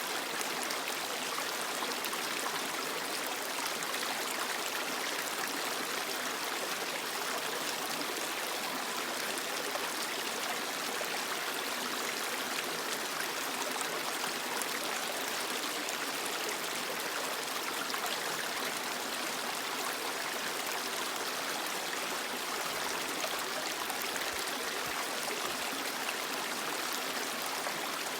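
Creek water flowing and burbling over rocks: a steady, even rush without breaks.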